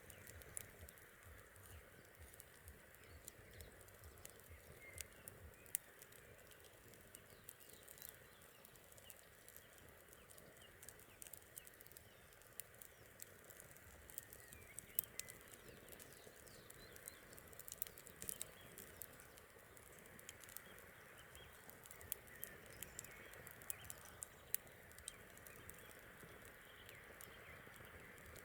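Campfire crackling: scattered sharp pops and snaps, faint, over a low steady hiss.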